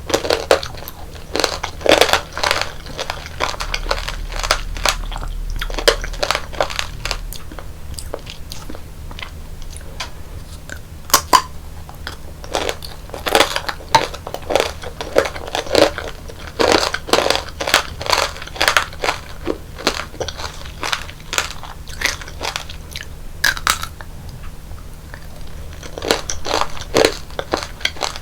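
Close-up crunching and chewing of tanghulu: the hard candied-sugar shell on the fruit cracking between the teeth in many sharp crackles, in bursts with quieter chewing in between.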